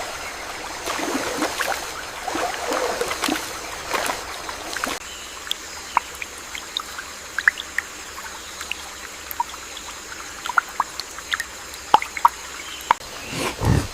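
Water trickling and splashing. About five seconds in it thins to scattered sharp drips over a faint steady high hiss.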